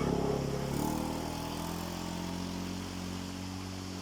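A motor engine running steadily, its note shifting about a second in, then slowly fading.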